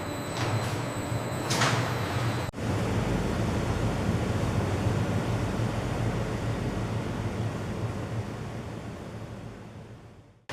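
Steady factory machinery noise with a low hum. There is a brief whooshing swell about one and a half seconds in and an abrupt change about two and a half seconds in, after which the machine noise runs steadily and fades out near the end.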